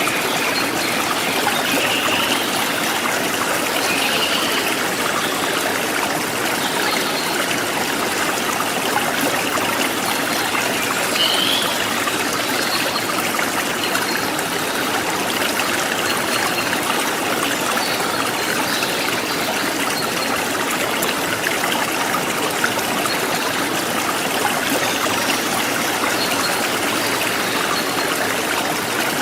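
A river stream flowing, a steady even rush of water that does not change.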